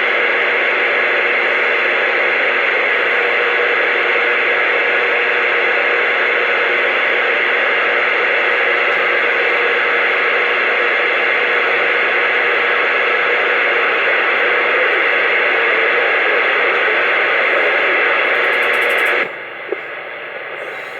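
CB radio receiver static: a steady, loud hiss with a faint whistle of a tone through the middle, dropping away sharply near the end.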